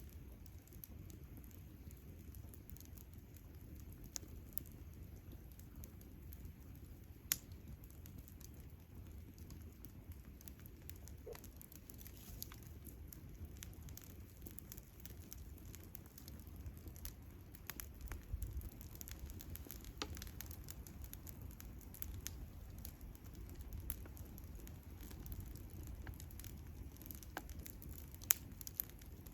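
Campfire crackling quietly, with scattered sharp pops at irregular intervals over a steady low rumble.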